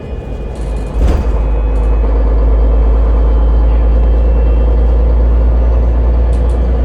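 Heavy low rumble of a moving route vehicle heard from inside, jumping up suddenly with a knock about a second in and then running steady and loud.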